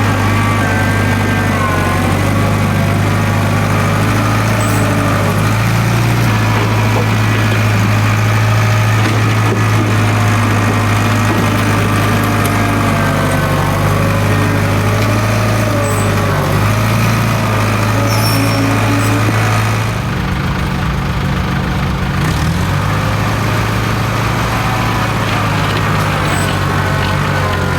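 International Harvester 270A backhoe's diesel engine running steadily, with wavering higher tones over its low hum; about 20 seconds in the sound changes and drops a little in level.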